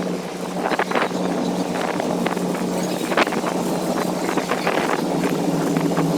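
A car ferry's engines droning steadily under way, with wind buffeting the microphone and a few sharp clicks and knocks, the loudest about three seconds in.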